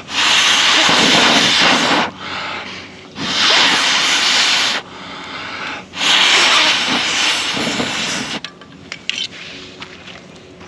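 Three long breaths blown through a fire blowpipe into the embers of a dying campfire to give it air, each a loud rush of air lasting about two seconds, with short pauses between them.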